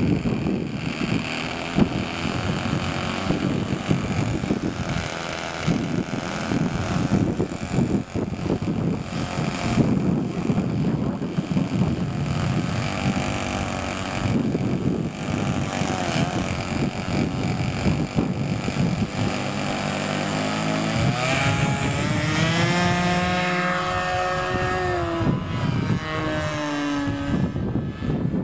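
Model-airplane engine (a Thunder Tiger 42) running on a radio-controlled plane, heard under a rough rushing noise for most of the stretch. About three quarters of the way in its note becomes clear, rises in pitch, holds, then drops again near the end.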